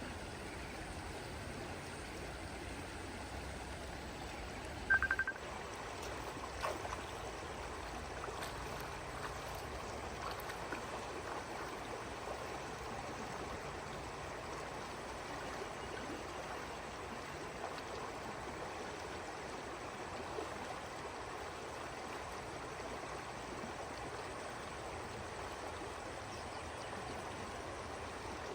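Steady rush of flowing water, like a stream or runoff. A low hum stops about five seconds in, and a short, sharp high chirp stands out at the same point.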